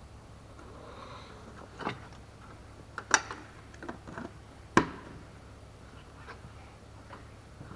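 Several sharp clicks and knocks, the two loudest about three and five seconds in, over a low steady hum.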